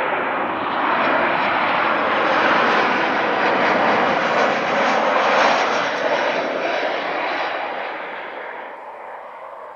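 Jet airliner's engines passing close by: the noise swells to a peak about five seconds in, then fades away.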